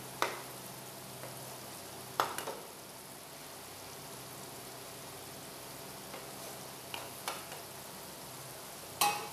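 Okra masala sizzling in a nonstick wok as a wooden spatula stirs it: a steady hiss with a few sharp knocks of the spatula against the pan, the loudest near the end.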